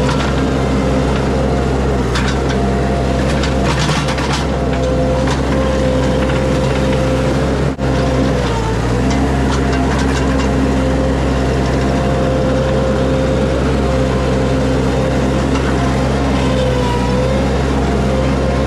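Mini skid steer's engine running steadily, its pitch sagging briefly twice. A few clatters in the first few seconds.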